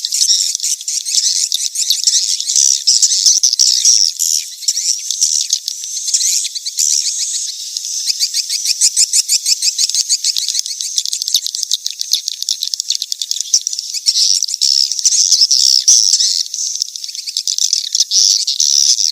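Swiftlet lure call of the "kejar kawin" (mating-chase) type, used to draw swiftlets into a nesting house. It is a dense, continuous high twittering of rapid chirps and clicks, with nothing in the low range.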